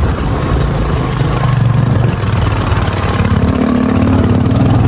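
Royal Enfield Bullet's single-cylinder engine running as the motorcycle is ridden slowly, its note climbing about three seconds in as the throttle is opened.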